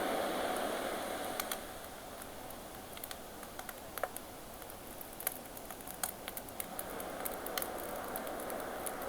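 Campfire crackling with frequent sharp pops over the wash of ocean waves; the surf eases about a second and a half in and swells again near the end.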